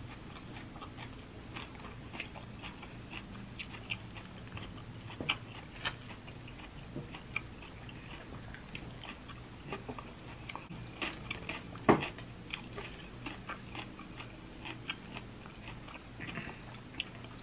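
Close-up chewing and crunching of a raw kale salad: scattered small crunches and wet mouth clicks, with one louder click about twelve seconds in, over a faint low hum.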